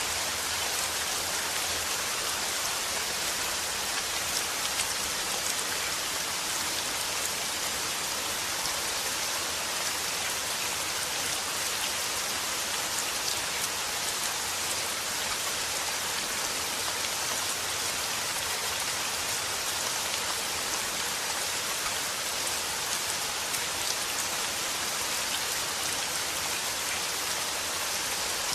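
Steady rain falling, an even hiss with scattered drop ticks on a hard surface.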